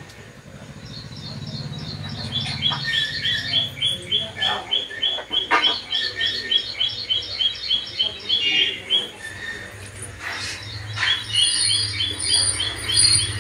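Bird chirping rapidly, a short high call repeated about four times a second in a long run, pausing about nine seconds in and starting up again near the end.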